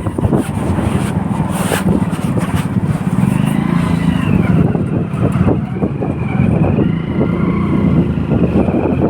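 Motorcycle engine running while riding, with wind buffeting the microphone. A faint wavering higher tone comes in about three seconds in and fades out near eight seconds.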